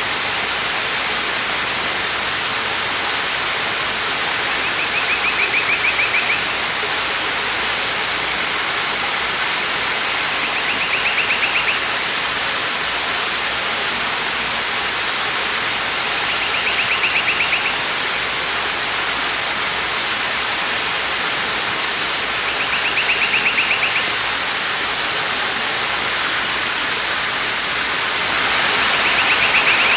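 Waterfall rushing steadily, with a short pulsing trill recurring about every six seconds, five times.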